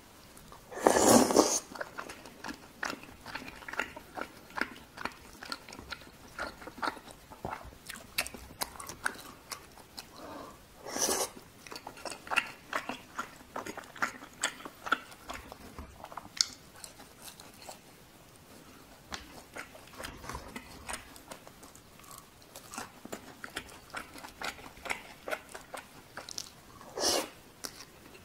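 Close-miked chewing of chewy rice cakes in sauce (cheese tteokbokki), with many wet mouth clicks. There are three louder, longer slurps: about a second in, about eleven seconds in, and near the end.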